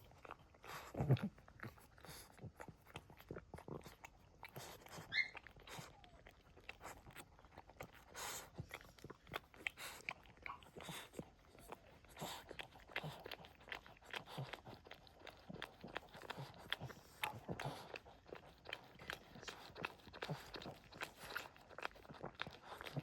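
Boston Terrier mother licking and mouthing her newborn puppies: a long run of small wet clicks and smacks, with a brief high puppy squeak about five seconds in.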